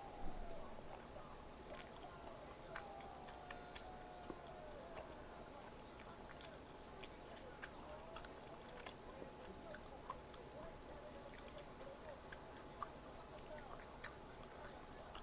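A person chewing food close to the microphone: soft, wet mouth clicks and smacks, irregular throughout, with a sharper one at the very start.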